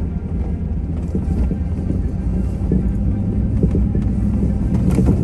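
Pickup truck's engine running steadily as the truck drives through deep snow, with scattered knocks and one sharp knock about five seconds in.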